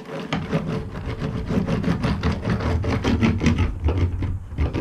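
Rapid, irregular rubbing and tapping on the van's sheet-metal panel as a sheet of Killmat sound-deadening mat is pressed down into place, over a steady low rumble.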